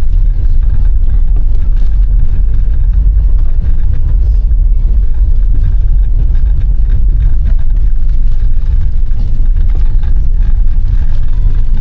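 A moving car making a loud, steady low rumble.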